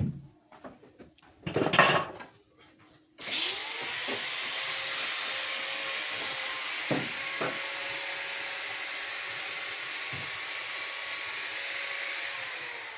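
A few knocks and a brief loud scrape, then about three seconds in an electric motor starts, its pitch rising as it spins up, runs steadily with a hiss for about nine seconds, and winds down near the end.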